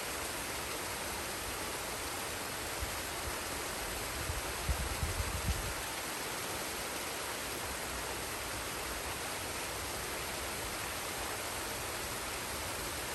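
Forest waterfall and stream: a steady rush of falling and flowing water. A few brief low thumps come about four to five and a half seconds in.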